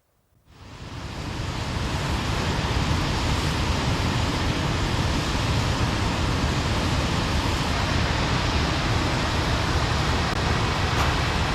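Steady rushing wind and road noise of a motorcycle riding at speed, with a deep rumble under a broad hiss. It starts about half a second in and builds over a second to a constant level.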